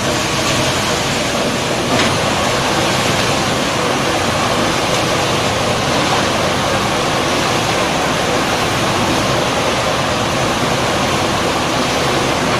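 Concrete mixer pump machine running, a loud, steady, even noise with a faint low hum beneath it, and a single click about two seconds in.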